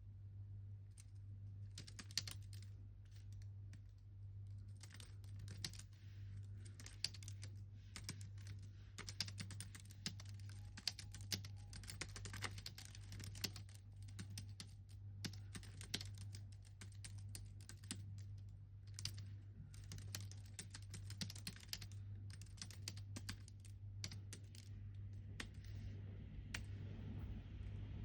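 Typing on a computer keyboard: short sharp keystrokes in irregular runs with brief pauses, thinning out near the end, over a steady low hum.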